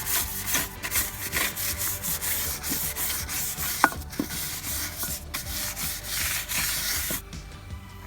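Hand scrubbing of a wet wheel rim coated in Bar Keepers Friend cleanser, in quick repeated back-and-forth strokes, scouring off surface rust. There is a brief squeak a little before halfway, and the scrubbing stops about seven seconds in.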